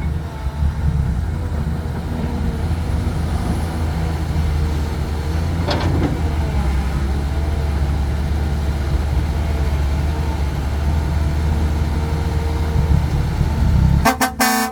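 Heavy diesel engine running steadily at a low, even rumble. Near the end a vehicle horn starts sounding in short repeated toots.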